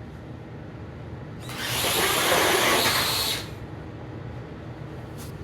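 RC truck's electric motor and tyres under hard throttle for about two seconds, a loud whirring scrabble that starts and then cuts off abruptly, as the truck spins a donut.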